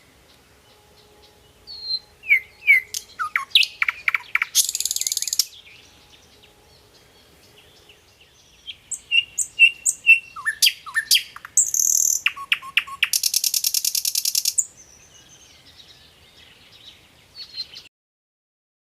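A songbird singing: a varied string of sharp chirps and slurred whistles, broken by two rapid buzzy trills, a short one about five seconds in and a longer one near fourteen seconds. The sound cuts off suddenly near the end.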